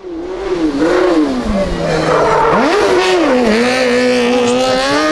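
Kartcross car's 600 cc high-revving engine at speed: the pitch falls over the first two seconds or so, jumps up sharply about halfway through, dips, then holds and climbs slowly toward the end.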